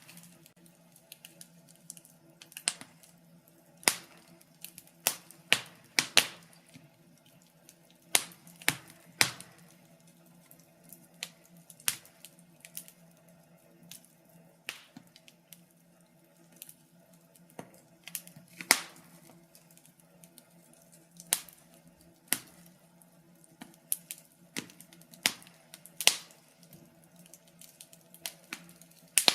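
Wood fire burning in a fireplace, crackling with irregular sharp pops and snaps, some single and some in quick clusters, over a faint steady hum.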